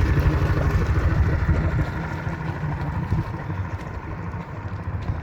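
Yamaha VMAX 200 HPDI two-stroke V6 outboard running at idle with a rapid low pulsing exhaust note, which gets somewhat quieter about two seconds in.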